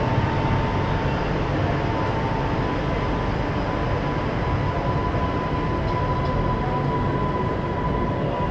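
Mumbai suburban AC electric multiple-unit local train pulling out of the platform: steady running rumble with a thin high whine that rises slightly in pitch as it gathers speed.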